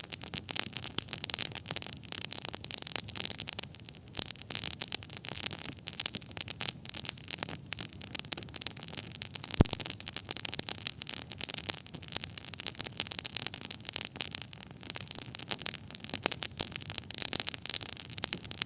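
Campfire of burning wood crackling continuously with dense fine pops and one louder, sharper pop about halfway through.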